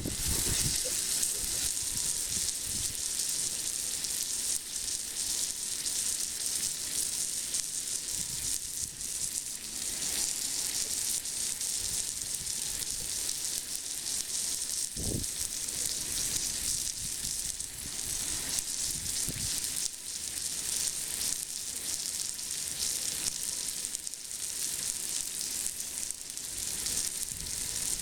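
Steak sizzling and crackling as it sears on a hot forged iron plate, steady throughout, with one brief low thump about halfway through.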